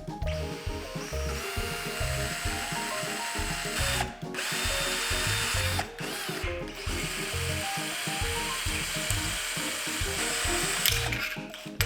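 A 10.8 V cordless drill driver running in long steady runs, stopping briefly three times, over background music.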